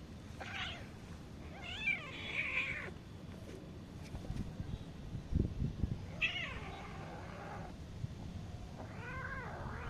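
A domestic cat meowing repeatedly, four drawn-out meows with a few seconds' gap between some of them. A few soft low thuds come in the middle.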